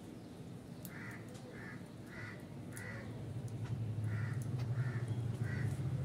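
A bird giving short, harsh cawing calls, about one every half second, in two runs of four. A low rumble builds from about halfway through.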